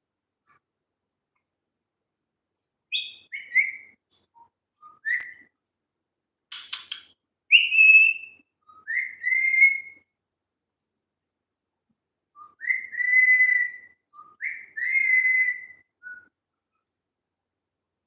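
Pet parrot whistling: a string of short whistles, each rising and then holding, the longest held notes coming in the middle and late in the stretch, with one brief harsh rasp between them.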